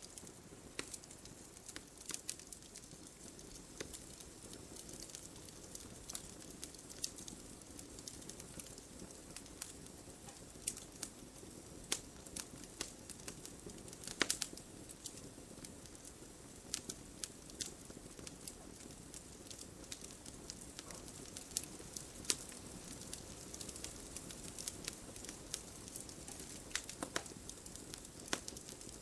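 Campfire burning, with irregular crackles and sharp pops over a soft, steady rush of flame; one louder pop about 14 seconds in.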